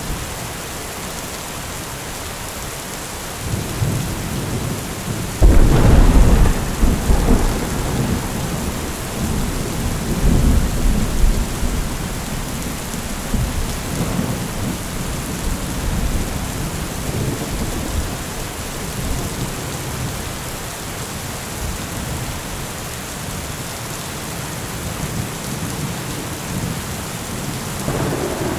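Heavy rain falling steadily, with a thunderclap about five seconds in that rolls on as rumbling for several seconds before dying away; another roll of thunder begins near the end.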